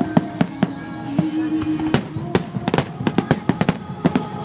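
Aerial fireworks bursting in quick, irregular bangs and crackles, several a second, over music with long held notes.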